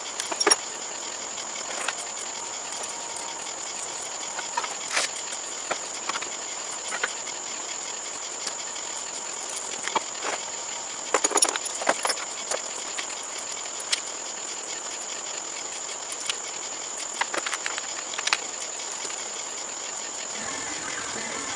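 Scattered metallic clicks and knocks of tools and parts being worked on a riding lawnmower, with a cluster of rapid clicks about halfway through, over a steady high-pitched insect drone.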